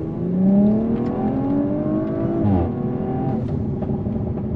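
2021 Audi RS5's twin-turbo 2.9-litre V6, on a Stage 2 tune with CTS downpipes and the factory sport exhaust, accelerating with a steadily rising note for about two and a half seconds, then the revs drop sharply and it runs on at a lower, steady note.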